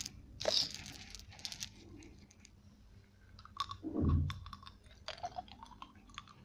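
Close-miked crunching and chewing of a crunchy food: a loud crunchy bite about half a second in, then scattered wet mouth clicks and a heavier chew or swallow around four seconds.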